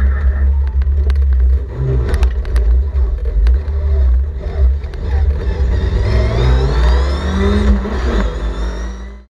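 On-board sound of a Sebring Sprite race car's engine at speed, the note climbing steadily over a couple of seconds as the car accelerates. The sound cuts off abruptly near the end.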